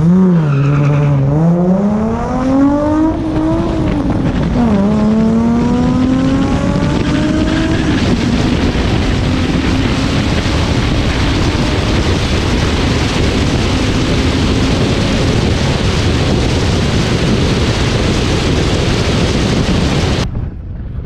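Car engine at full throttle on a drag-strip launch, revs climbing, dropping sharply at a shift about three and a half seconds in, then climbing again. After that a steady rush of wind and road noise drowns the engine, and the sound cuts off suddenly near the end.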